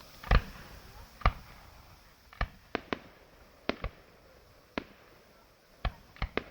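Fireworks exploding: about eleven sharp bangs at uneven intervals, some in quick pairs. The first two are the loudest.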